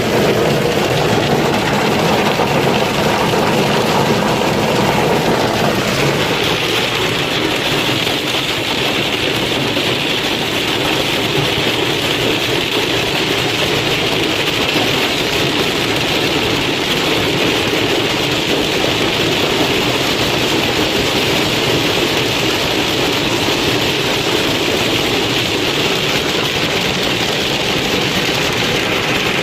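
Hailstorm: a dense, steady clatter of hail pelting down. About six seconds in the sound changes, turning brighter and higher.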